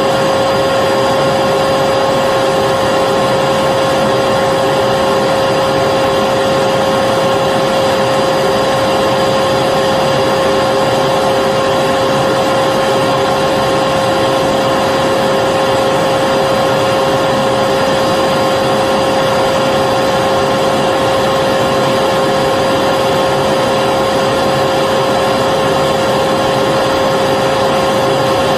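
Vacuum cleaner motor running steadily, a constant whooshing hum with a fixed whine, used as white noise to lull a baby to sleep.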